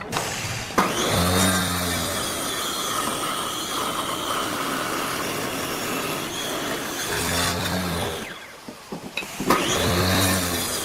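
Electric power tool switched on and spinning up to a high whine, running steadily, then shut off briefly and started again near the end.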